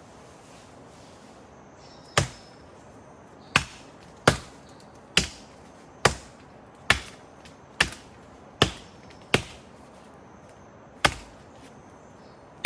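Wood being chopped: ten sharp strikes, roughly one a second, starting about two seconds in, with a short pause before the last one.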